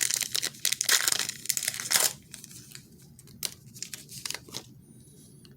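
A trading card pack wrapper being torn open and crinkled, loud for about the first two seconds, followed by a few softer rustles and clicks.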